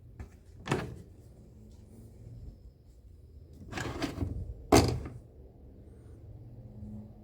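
Electrolux LTE12 top-load washing machine with a low steady hum and three knocks or thunks, the loudest and sharpest about five seconds in.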